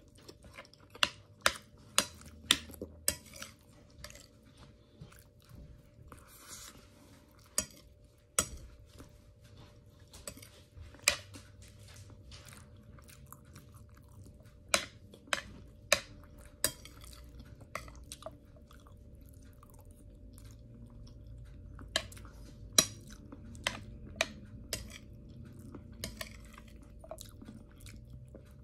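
A person chewing fatty roast pork and rice close to the microphone, with wet mouth sounds and many sharp, irregular clicks of a metal spoon against a plate.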